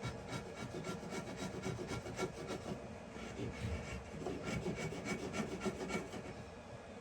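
A hand tool working wood in quick back-and-forth strokes, about five or six a second, in two spells with a short pause between.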